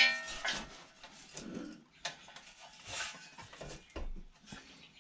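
A sharp metallic clang with a brief ring at the start, then irregular knocks and scrapes of metal on metal as the engine is shifted forward on the mini bike's frame to take up slack in the drive chain.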